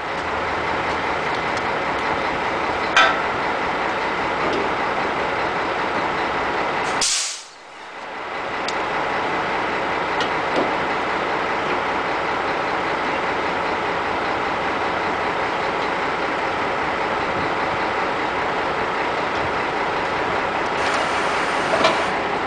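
Scania 360 truck running with a steady, noisy drone. About seven seconds in comes a short sharp hiss like an air release, after which the sound drops away for a second and builds back up.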